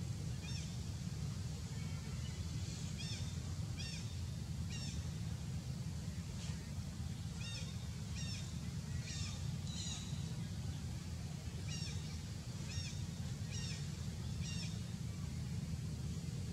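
A bird's short, high chirps, repeated irregularly, often in quick pairs or threes, over a steady low rumble.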